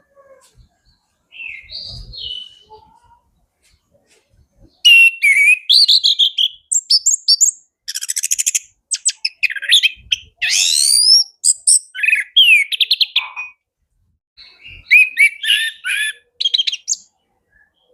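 Male orange-headed thrush singing a varied song of high whistles, quick trills and rattles, packed with mimicked phrases of other birds. A few soft notes come first, and the full run of song starts about five seconds in.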